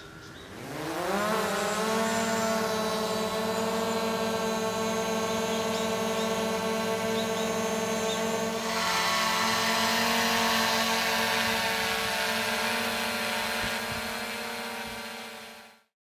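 DJI Air 2S quadcopter's motors and propellers spinning up with a rising whine, then running at a steady high-pitched buzz. The sound grows a little rougher and hissier about nine seconds in, and it cuts off abruptly near the end.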